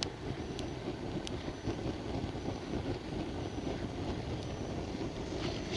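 Swedish candle log fire burning after lighting, its flame drawing with a steady low hum, with a few sharp crackles.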